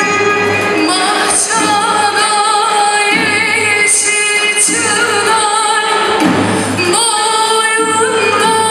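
A woman singing a Turkish folk song (türkü), accompanied by a traditional ensemble of violins, ouds, kanuns, clarinet and hand percussion. Her voice comes in about a second in, after a plucked-string passage.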